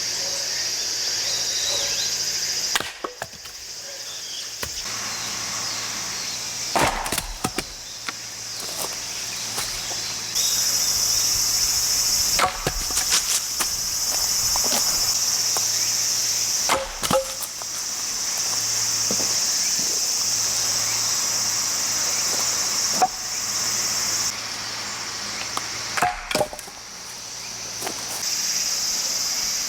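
A 3 kg hammer axe splitting firewood: several sharp strikes a few seconds apart, with wood cracking and splitting. Behind them a steady high-pitched insect chorus.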